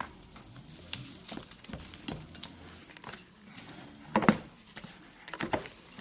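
Slime being squished and poked by hand, with irregular crackling clicks and pops; the loudest pop comes about four seconds in.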